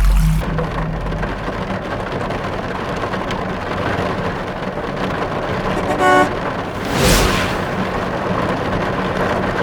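Truck engine running steadily, heavy and low for the first half-second, with a brief horn toot about six seconds in and a short whoosh about a second later.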